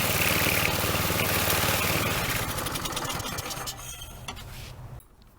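Troy-Bilt string trimmer engine running steadily, then slowing about two seconds in and dying out just before the end. It is a stall that the owner thinks may come from its cheap clone carburetor.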